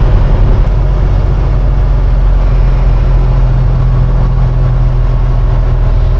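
Semi truck's diesel engine running steadily with a deep, loud, even drone.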